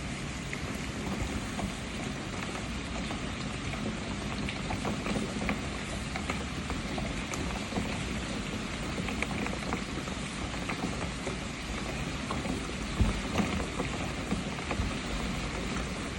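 Steady rain falling, with the tick and patter of individual drops, and a few louder low knocks near the end.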